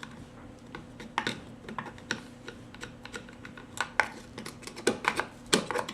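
Irregular clicks and scrapes of a hand tool picking and scraping caked-up sawdust out of a chainsaw part, with a quicker run of clicks about five seconds in.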